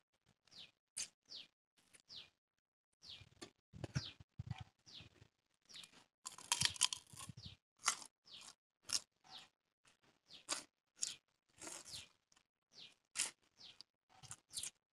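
Close-up crunching and chewing of food, a run of irregular bites and chews. Short falling chirps, like a small bird's, recur among them.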